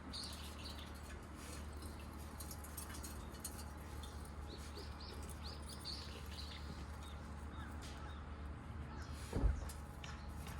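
Small birds chirping in short high calls, with a quick run of chirps in the middle, over a steady low rumble; a single dull thump near the end.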